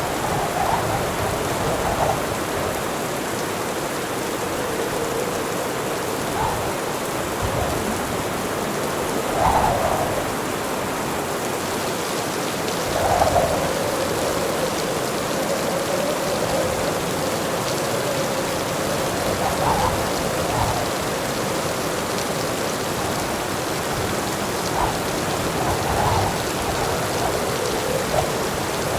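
Heavy rain falling steadily, a continuous even hiss with small swells of louder patter now and then.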